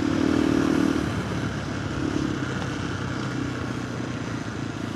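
Single-cylinder engine of a KTM 390 Adventure R through a Norifumi Whoops stainless slip-on exhaust, under steady throttle while riding. About a second in it eases off to a lower, quieter note.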